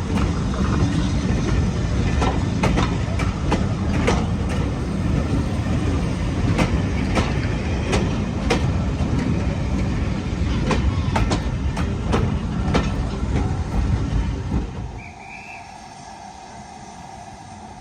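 Heritage railway train rolling on track: a heavy rumble with repeated sharp clicks of wheels over rail joints. The rumble drops away sharply about fifteen seconds in, leaving a much quieter background.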